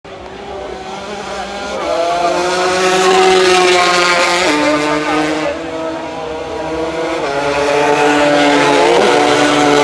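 Several 200 cc racing motorcycle engines at high revs, growing louder as they pass. Their pitch drops in steps at gear changes about four and seven seconds in, then climbs again near the end.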